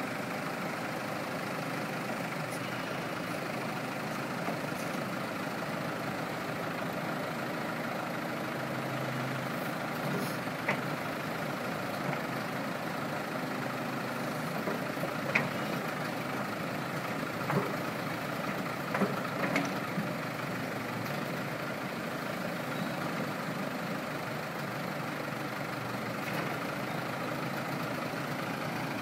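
1984 Case 580E loader backhoe's engine running steadily, with a few short sharp clanks from the machine now and then, the loudest about halfway through.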